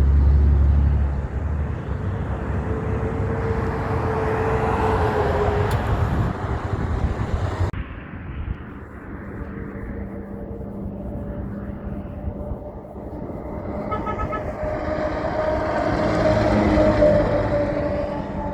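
Heavy trucks driving past, engines loud and rumbling up close. The sound changes abruptly about eight seconds in, and another truck's engine builds up near the end.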